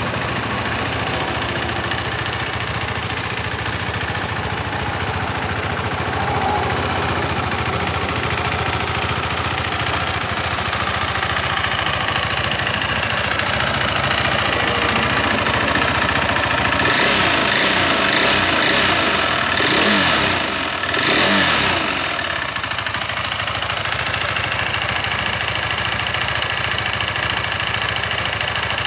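2020 KTM 390 Adventure's single-cylinder engine idling through its stock exhaust. A little past the middle it is revved up a couple of times in quick succession, then settles back to a steady idle.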